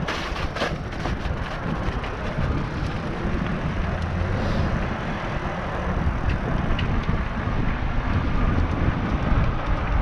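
Electric bike riding through deep snow on throttle alone: tyres churning through the snow over a steady rush of wind noise on the action camera's microphone, with a few clicks in the first second.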